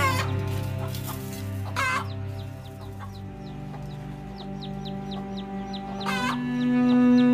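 Chickens clucking, with loud calls at the start, about two seconds in and near the end, and a run of short high peeps in between. Background music with long held notes plays throughout.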